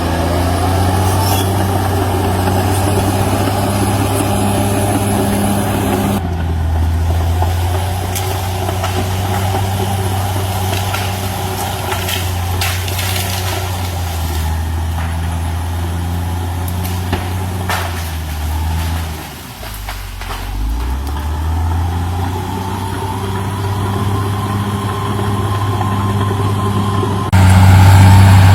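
CAT D6R XL bulldozer's diesel engine running at steady revs, with scattered short knocks in the middle. Near two-thirds of the way through the engine pitch sags and then recovers, the engine lugging under load. Near the end it suddenly becomes louder.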